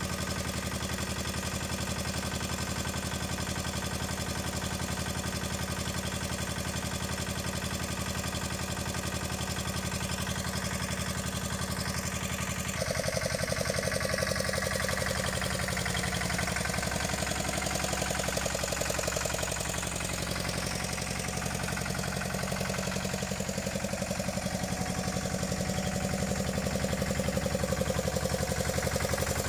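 Small tractor engine of a 1982 Tomo Vinković TV 522 running steadily at idle, with an even pulsing beat. About halfway through the sound changes abruptly and gets a little louder.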